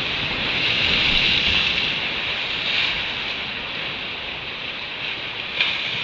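Ocean surf and wind, a steady rush that swells about a second in, with one short click near the end.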